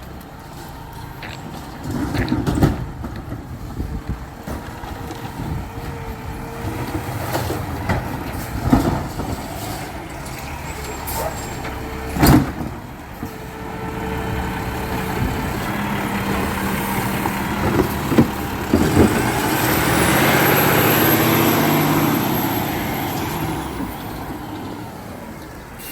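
Garbage truck engine running, with several sharp metal clanks and bangs. About two-thirds through comes a louder rushing hiss with a high whine that rises, holds and then falls away.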